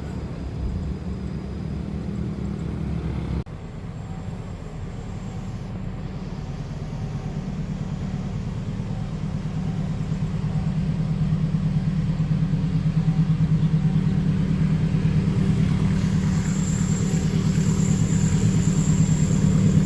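Diesel train approaching, its low engine rumble growing steadily louder. There is a sudden break about three seconds in.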